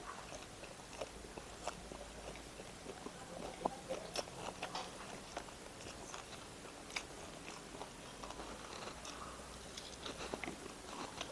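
Close-up eating sounds: a person chewing and biting food, with wet mouth smacks and small crunches. These come as irregular short clicks, busiest about four seconds in.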